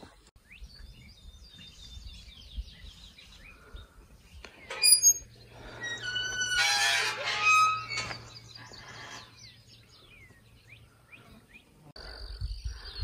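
Songbirds chirping, then a louder stretch of layered pitched tones from about five to eight seconds in, over a low steady hum.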